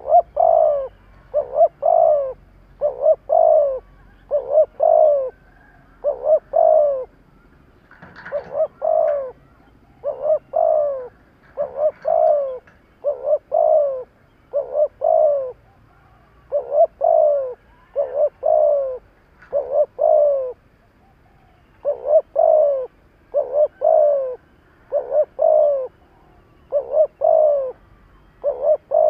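Spotted dove cooing in a fast, steady series of double coos, each note falling in pitch, about one pair every second and a half, with a short pause about three-quarters of the way through. This is the rapid 'thúc' song used to stir up rival doves.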